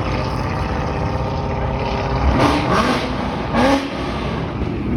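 A car engine running loudly with steady revs, and two brief shouts from onlookers near the middle.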